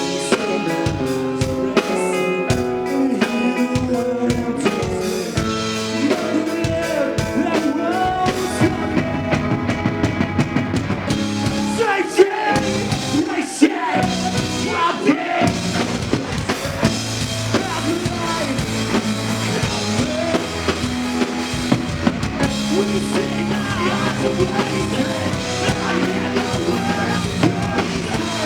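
A rock band playing live, with drum kit and singing.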